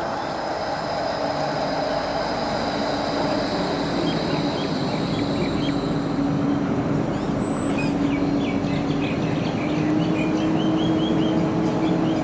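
Melbourne tram running on the light-rail tracks, a steady electric motor whine with wheel-on-rail noise, slowly growing louder, its pitch rising a little near the end. Birds chirp in the background in the second half.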